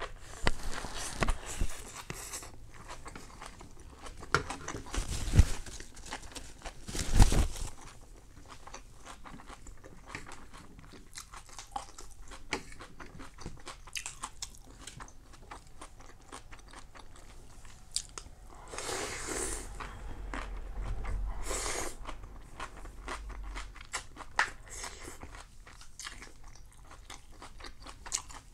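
Close-up chewing and crunching of crispy rice pancake (banh xeo), with a few loud crunchy bites in the first several seconds, then steadier, quieter chewing made of many small crackles.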